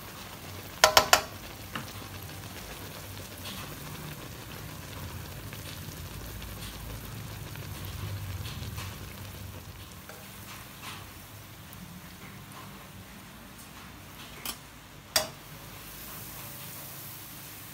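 Dough cakes sizzling steadily in hot oil in a wok. A quick run of sharp clicks about a second in and two more near the end: the utensil knocking against the pan as the cakes are turned and lifted out.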